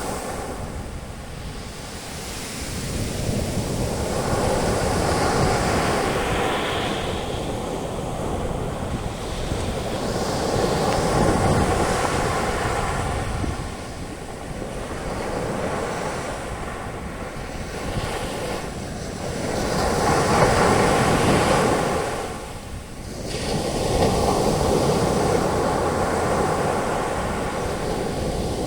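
Ocean waves breaking and their foam washing up the beach, the surf swelling and fading in slow surges every few seconds, with some wind on the microphone.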